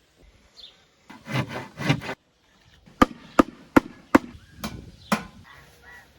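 Two rough scraping strokes, then six sharp knocks about half a second apart, like chopping on wood.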